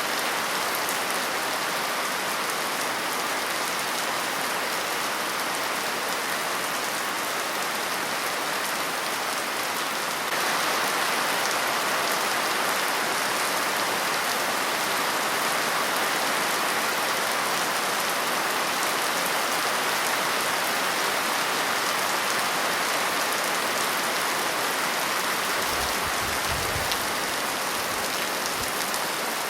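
Steady rain falling, an even hiss of drops on a surface, which grows slightly louder about a third of the way in. A brief low rumble sounds near the end.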